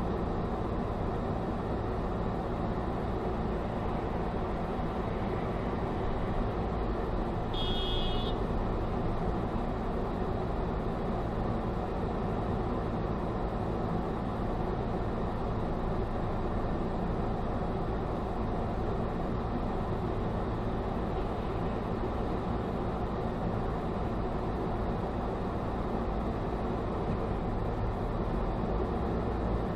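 Steady car engine and road noise from a moving car. About eight seconds in comes a short high-pitched tone.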